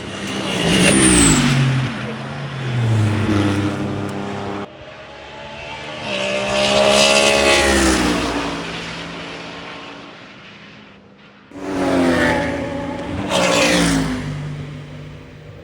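GT race cars, heavily muffled for noise limits, passing at speed in three short separate takes. In each, the engine note climbs as a car closes in and drops away as it goes past, loudest about a second in, in the middle, and near the end.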